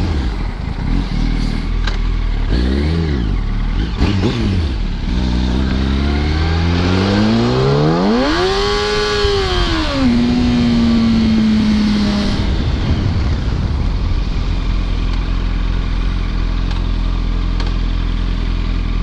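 Yamaha R1 sport bike's inline-four engine pulling away: a few short rises in revs, then one long climb that peaks and drops about nine to ten seconds in as it shifts up. It then settles into a steady low drone of engine and wind at cruising speed.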